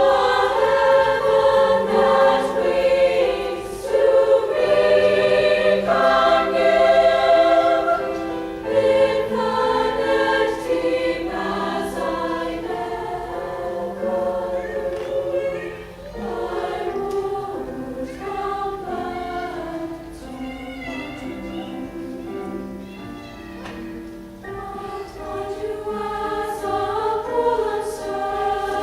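A choir singing held chords in several parts, full and loud for the first several seconds, then softer.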